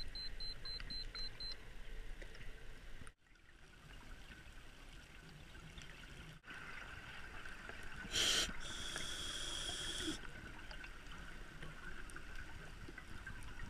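Underwater sound of a scuba dive picked up through a camera housing: a steady watery hiss and trickle, with a brief louder rush about eight seconds in. A run of rapid short high beeps sounds in the first second and a half, and the sound cuts out for a moment about three seconds in.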